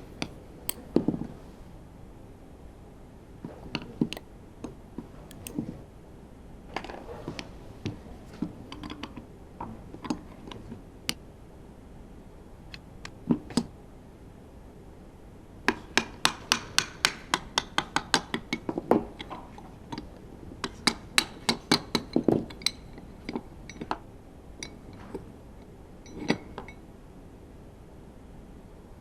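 Metal engine parts and hand tools clinking, tapping and knocking as a racing engine is taken apart. There are scattered single knocks, then a quick run of even ticks about halfway through and a second burst soon after.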